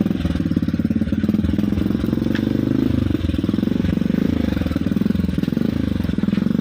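Motorcycle engine running at a steady speed with a fast, even pulsing and no big revs.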